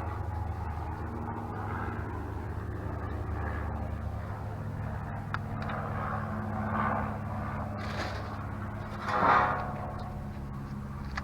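A motor vehicle running steadily, its low hum shifting about four and a half seconds in, with a brief louder whoosh about nine seconds in.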